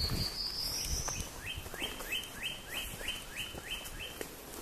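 A songbird singing: one rising whistled note, then a run of about nine quick notes, each sweeping up and then held, about three a second. Footsteps on the trail are heard at the start.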